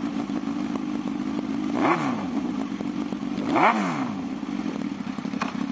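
2006 Suzuki GSX-R1000's inline-four engine with an M4 aftermarket exhaust idling, blipped twice with quick revs that rise and fall back, a little under two seconds apart.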